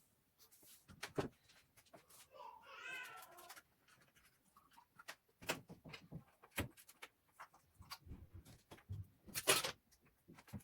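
Scattered clicks, taps and knocks of small parts and tools being handled, with one short wavering pitched call about three seconds in that sounds like an animal's cry, such as a cat's meow.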